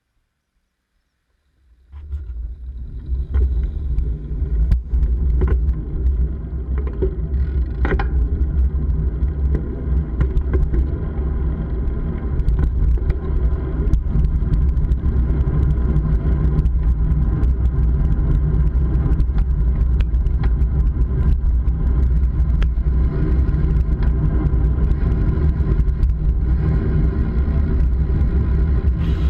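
Steady low riding rumble from a moving bike, heavy with wind buffeting on the microphone, with small rattles and clicks over it; it starts suddenly about two seconds in after silence.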